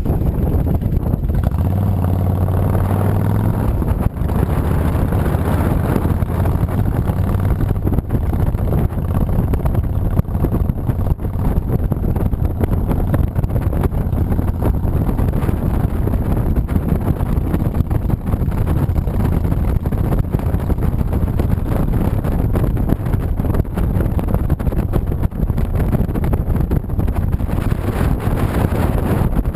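Riding wind buffeting an action camera's microphone over the low, steady rumble of a 2007 Honda VTX 1300C's V-twin engine under way; the engine tone comes through stronger for a moment about two seconds in.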